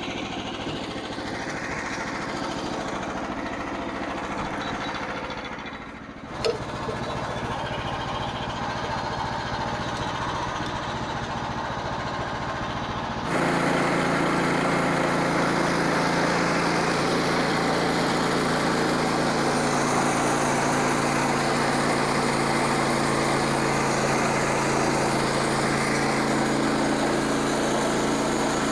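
Small gasoline engine of a Frontier OS27 portable band sawmill running steadily. There is a sharp click about six seconds in. About 13 seconds in the sound steps up abruptly, louder and fuller, and stays that way.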